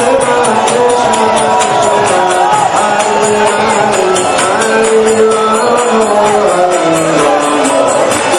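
Devotional group singing with metallic percussion, like hand cymbals or a tambourine, keeping a quick steady beat.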